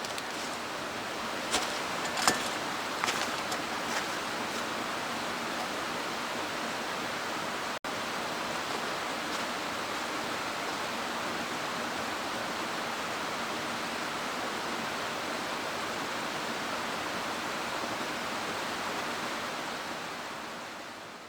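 Mountain stream rushing steadily, with a few sharp clicks in the first few seconds. The sound drops out for an instant about eight seconds in and fades out at the end.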